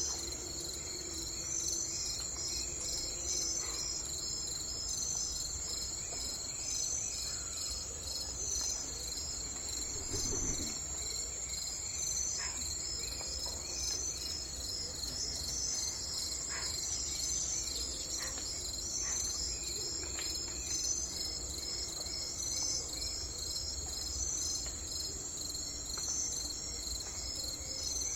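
Steady, high-pitched chorus of chirring insects with a fast even pulse. A few faint bird chirps are scattered through it over a low background rumble.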